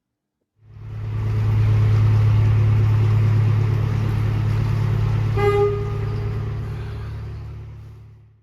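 A steady low engine hum that fades in and out, with one short horn toot about five and a half seconds in.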